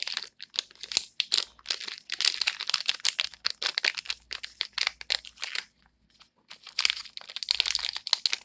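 Plastic packaging crinkling and rustling in quick, irregular crackles as a new laptop fan is unwrapped, with a brief pause about six seconds in.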